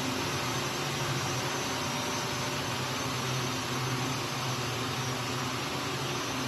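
Steady hum and hiss of textile factory machinery running, with a faint low drone underneath.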